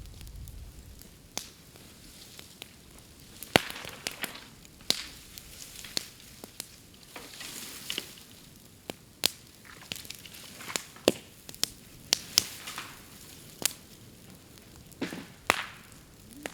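Bamboo burning in an open bonfire, crackling and snapping at irregular moments, with sharp pops where the hollow stems split in the heat. The loudest crack comes about three and a half seconds in.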